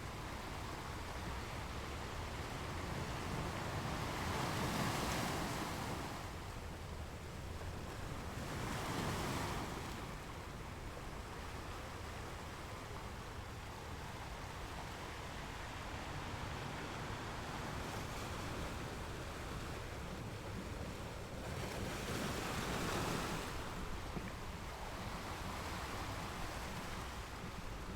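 Ocean waves washing in, a continuous surf hiss that swells louder three times as waves break, over a steady low rumble.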